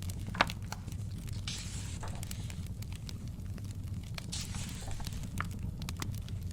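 Crackling fire with a steady low rumble and scattered sharp pops, one louder pop about half a second in. Two short papery rustles, like pages being turned, come about a second and a half in and again near the end.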